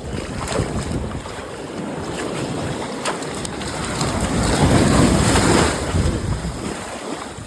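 Ocean surf washing in with wind buffeting the microphone, a steady rush that swells to its loudest about four to six seconds in.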